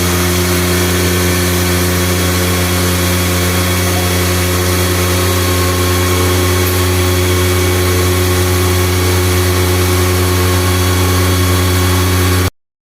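Honda CD motorcycle's single-cylinder engine running at a steady, unchanging speed, then cutting off suddenly near the end.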